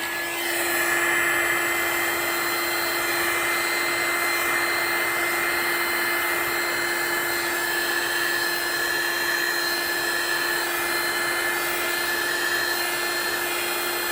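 Handheld electric hot-air blower running steadily, a constant rushing noise with a fixed hum and a higher whine; it switches on right at the start. It is blowing white resin across the coasters to form wave lacing.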